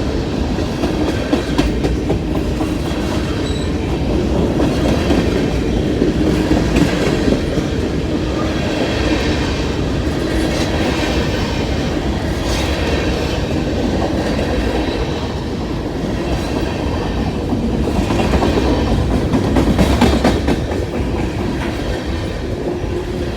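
CSX freight train cars rolling past, with a steady rumble of wheels on rail and irregular clacks as the wheels cross rail joints.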